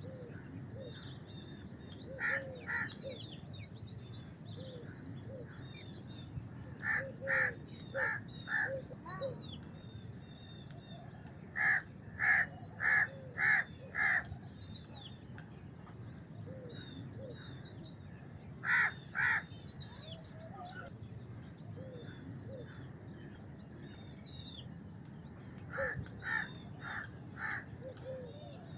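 House crows cawing in five separate bouts of two to five caws each, over continuous high-pitched chirping and twittering of small birds.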